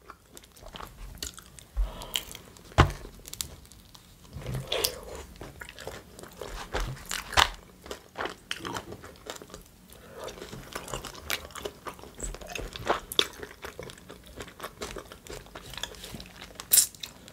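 Close-miked chewing of a mouthful of chicken shawarma, with irregular wet mouth clicks and smacks throughout.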